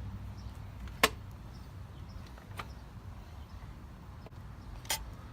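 Three sharp knocks from the loose top cover of a Briggs and Stratton mower engine being handled and tried in place. The loudest is about a second in, a weaker one comes about halfway, and another comes near the end, over a low outdoor rumble.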